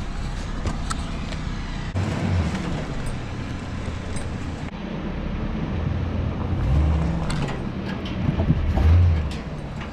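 Work truck engine running under load as it pushes a dead truck, with the engine surging louder about 2, 7 and 9 seconds in as throttle is applied against the curb.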